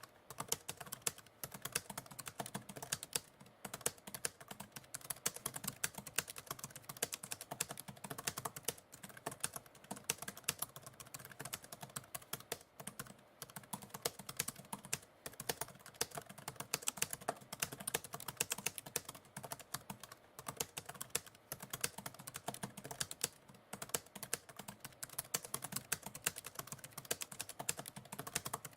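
Continuous typing on a computer keyboard: a rapid, irregular patter of key clicks with brief pauses now and then.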